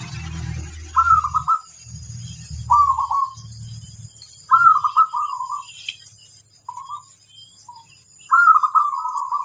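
Zebra dove (perkutut) cooing: a series of short, stuttering phrases, with a longer phrase beginning near the end. A low rumble runs underneath during the first few seconds.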